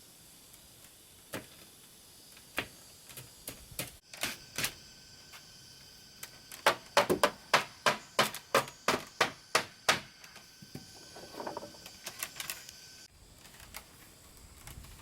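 Hammering on wood: a few scattered taps, then a run of sharp knocks, about three a second, that stops about two-thirds of the way in.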